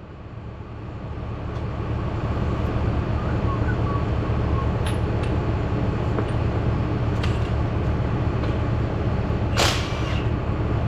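A motor running the lifting crane: a steady low hum that comes up to speed over the first two seconds and then holds even. About ten seconds in there is a short sharp hiss.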